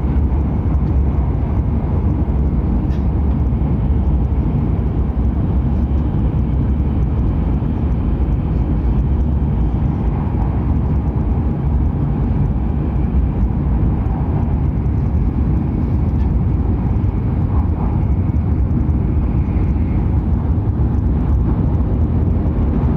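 Hokuriku Shinkansen E7/W7-series train running at speed, a steady low rumble of running noise heard from inside the carriage.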